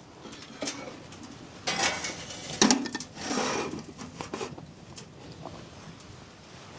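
Metal camping cookware being handled: scattered clinks and knocks, with a busier clatter about two seconds in.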